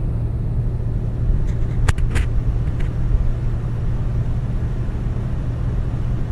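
Car running down the road, a steady low rumble, with a couple of sharp clicks about two seconds in.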